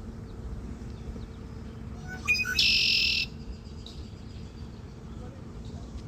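A bird in a tree gives a few short chirps about two seconds in, then one loud, harsh call lasting under a second. A steady low background rumble runs underneath.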